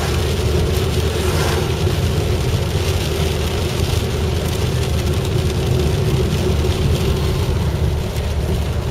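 Steady engine and road noise heard inside the cabin of a Suzuki SX4 driving on a rain-wet road: a continuous low rumble with an even hiss above it.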